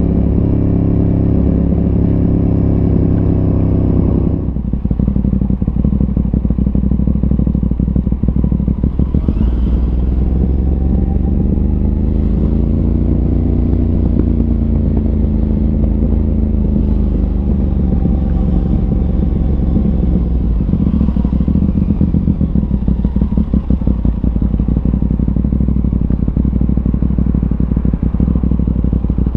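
Aprilia RS 660's parallel-twin engine through an SC Project aftermarket exhaust, riding along. A steady engine note cuts away sharply about four seconds in, then a lower note rises and falls gently.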